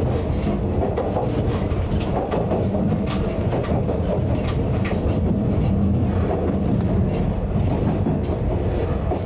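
Narrow-gauge electric railcar running along the line, heard from the front of the cab: a steady low running rumble with scattered sharp clicks from the wheels on the track.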